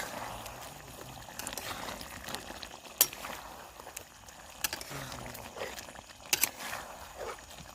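A pan of curry simmering and sizzling on a small gas camping stove, a steady hiss with a few sharp pops.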